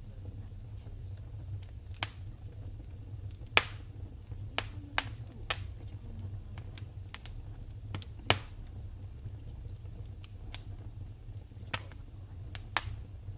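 Wood fire crackling in a fireplace: sharp, irregular pops and snaps, about a dozen, over a steady low rumble. The loudest pops come about three and a half and eight seconds in.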